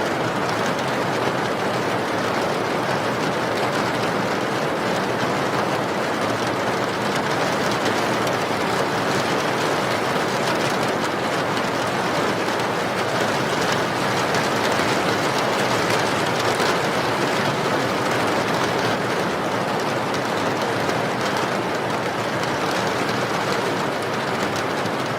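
Steady rain, an even hiss that keeps on without let-up.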